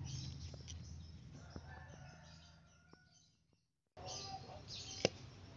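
Faint outdoor ambience with small birds chirping and a few soft handling clicks over a low hum. The sound cuts out completely for a moment just before the four-second mark, and a single sharp click comes about a second later.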